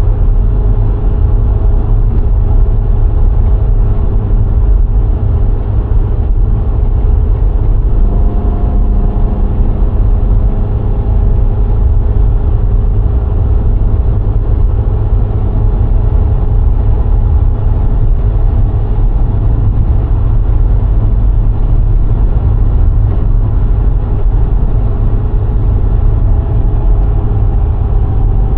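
VW Golf IV 1.6 four-cylinder petrol car driving at a steady speed: a loud, heavy low rumble of road and wind with a steady engine hum over it. About eight seconds in, an extra engine tone joins for a few seconds.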